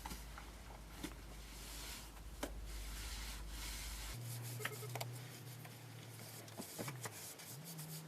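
Quiet rubbing and scraping, with a few light knocks scattered through it.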